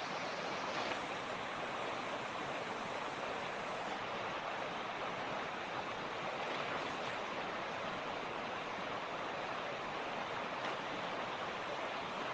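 Mountain creek running over rocks: a steady, even rushing of flowing water.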